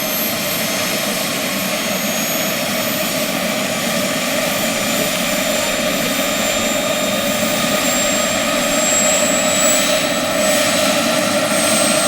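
Large RC scale model helicopter running in flight: a steady motor and rotor sound with high whining tones that slowly rise in pitch and grow a little louder toward the end.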